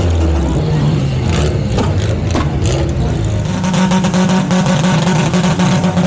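A car engine running loudly, settling into a steady held note about three and a half seconds in.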